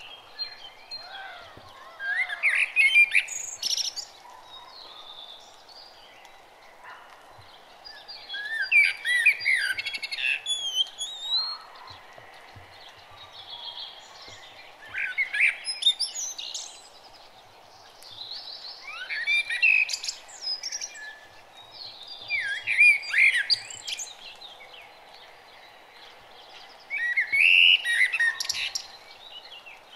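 Birds chirping and singing in short bursts of quick, sweeping notes about every four to five seconds, over a steady faint background noise.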